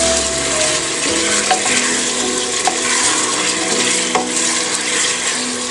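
Mutton curry frying in an open pressure cooker while a wooden spatula stirs it. The spatula scrapes through the sizzling masala, with a few light knocks against the pot.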